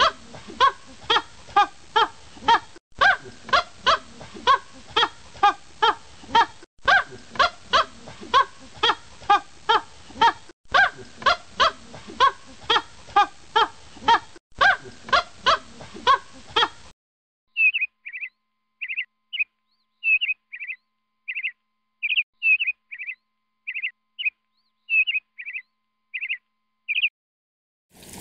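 Animal calls: rapid repeated pitched calls, about three a second, in stretches that break off every four seconds or so. After a short pause comes a run of short, high chirping calls.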